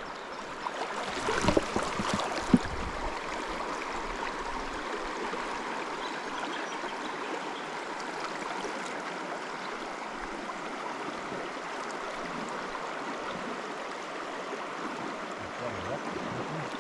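River water flowing steadily, an even rush of noise, with a few knocks and rustles of handling between one and three seconds in.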